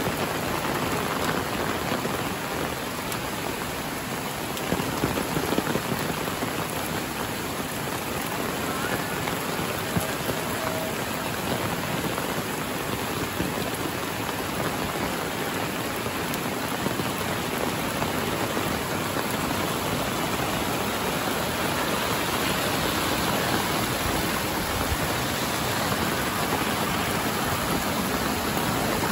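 Heavy rain falling steadily, an even hiss of drops with a few louder spatters about five seconds in.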